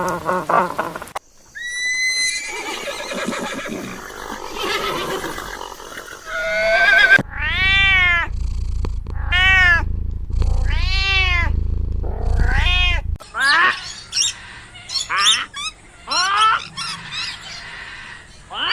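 Animal calls in several short segments: in the middle, four or five rising-and-falling calls about a second and a half apart over a low hum, then quicker, higher calls near the end.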